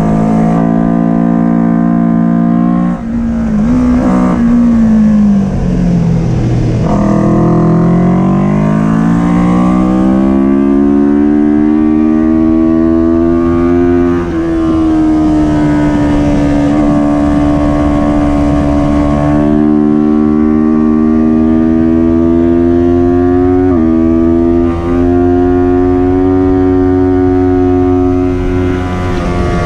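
Kawasaki Ninja 400 parallel-twin engine at racing revs. The pitch drops about three to six seconds in as the bike slows and downshifts, then it accelerates hard with the pitch climbing steadily, shifts up around halfway, and holds high revs with a few more quick shifts near the end.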